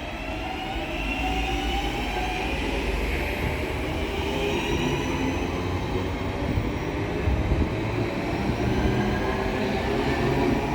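Northern Class 323 electric multiple unit arriving into the station, its traction motors giving several whining tones that slide in pitch over a steady rumble of wheels on rail. The sound grows louder about a second in.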